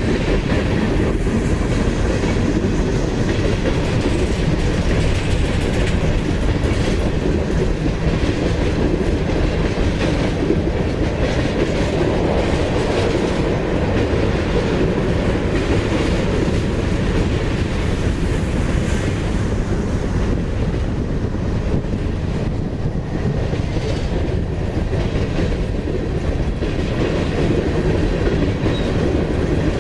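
Freight train cars rolling past on the track: a steady, loud rumble with wheel clicks scattered through it.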